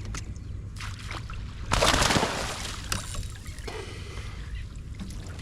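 Water splashing beside a kayak as a large hooked flounder thrashes at the surface, loudest in one short burst about two seconds in, with small knocks and water sounds around it.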